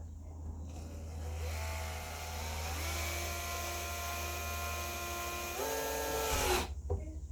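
Electric drill-driver running for about six seconds: its whine climbs as it spins up, holds steady, steps up in pitch near the end, then winds down and stops. A steady low hum sits underneath.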